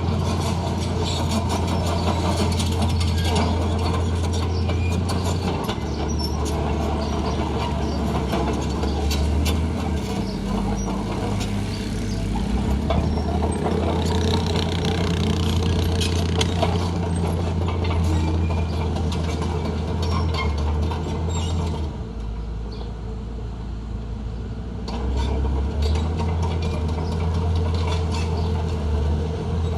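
Diesel engine of heavy earthmoving machinery running loud under load, its pitch shifting up and down, with metallic clanks and rattles throughout. It eases off for a few seconds past the middle, then picks up again.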